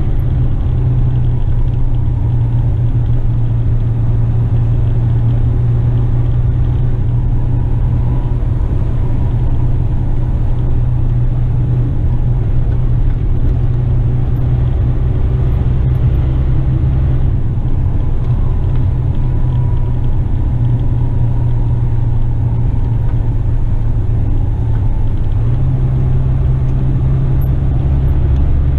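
Western Star tipper truck's diesel engine and road noise while driving: a steady low drone. The engine note eases about two-thirds of the way through and strengthens again near the end.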